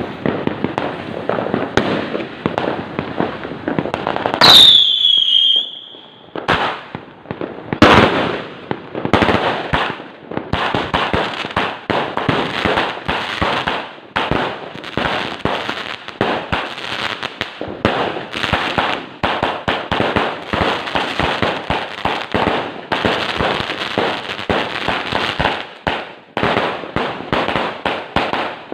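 A 188-shot fireworks cake firing: a rapid string of shots and crackling bursts. About four and a half seconds in comes a whistle falling in pitch, with a loud bang; another loud bang comes about eight seconds in.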